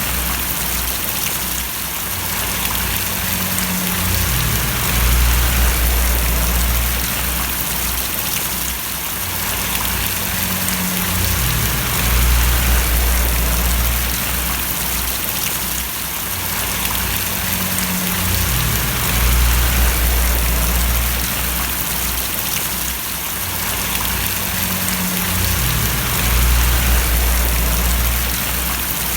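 Steady rain falling and splashing on surfaces, an even hiss of drops with a low rumble underneath that swells and shifts about every seven seconds.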